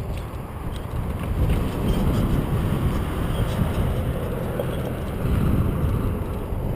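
Wind buffeting a GoPro microphone during a bicycle ride, over a low rumble of tyres rolling on the path, with a few faint clicks. It grows louder through the middle and eases near the end.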